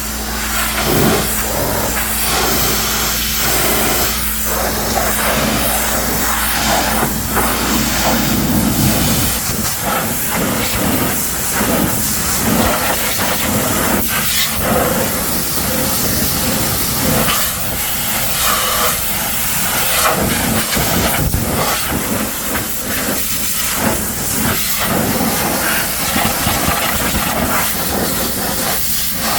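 Pressure washer jet spraying a muddy truck, a loud, steady hiss of water that swells and dips as the spray moves over the body. A steady low hum underneath stops about nine seconds in.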